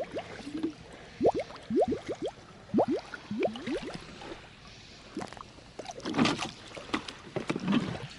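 Water container held under lake water and filling, glugging as air escapes in quick rising gurgles, followed by a couple of splashes in the water.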